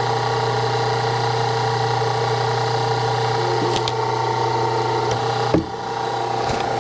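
Hydraulic log splitter running steadily under load as it splits wood, with a short sharp break in its hum about five and a half seconds in.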